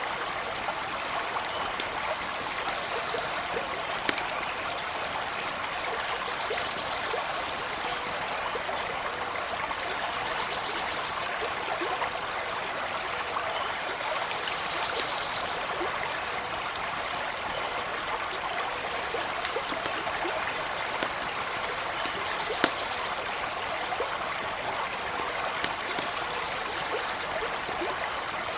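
A stream running steadily, with scattered sharp crackles and pops of a small campfire over it.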